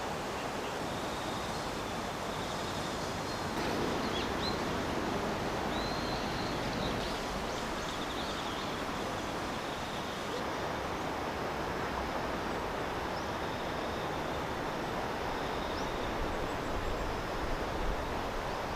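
Steady outdoor rushing noise, with faint high insect trills and a few short bird chirps over it.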